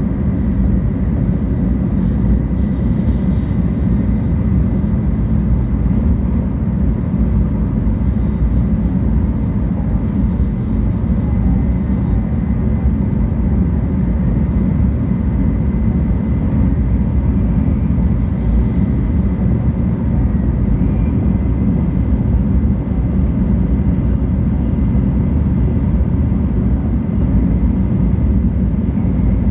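Steady low rumble of a 700 series Shinkansen running on the Tokaido line, heard inside the passenger cabin, with a faint steady high tone above it.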